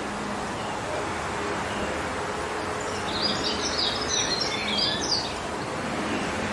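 Steady wind rushing through forest trees, with a songbird giving a quick cluster of high chirps about halfway through.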